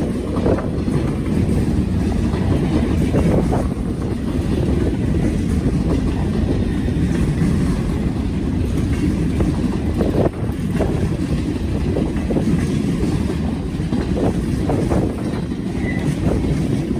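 Freight train rolling past: a steady, loud rumble of railcars on the track, with a few brief knocks.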